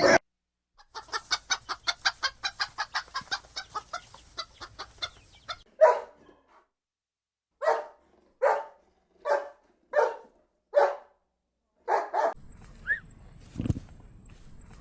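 Chickens clucking: a fast run of soft clucks for a few seconds, then louder single clucks spaced about a second apart. Near the end, short high chirps and a single thump over a background hiss.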